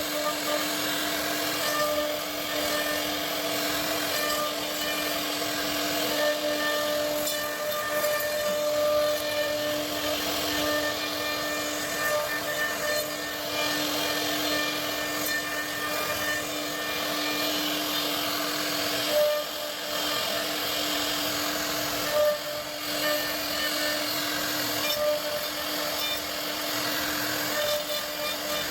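CNC wood router running and cutting: a steady high spindle whine over a continuous hiss of cutting noise, with small rises and dips in level as the bit works.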